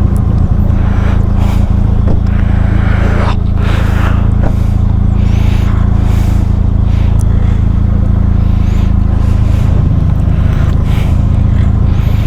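Motorcycle engine, a Benelli TRK 502X parallel twin, running at steady revs while riding, with scattered short knocks over it.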